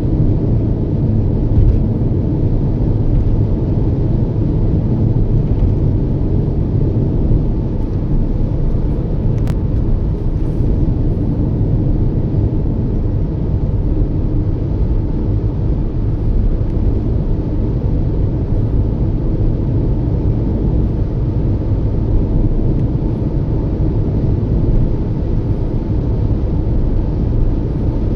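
Steady low rumble of a small car driving along, road and engine noise from a Toyota Yaris at cruising speed.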